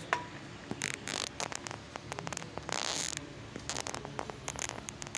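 Mitsubishi Rosa bus steering making irregular clicks and short scratchy rasps over the low hum of the idling engine: the bad steering noise the bus has developed.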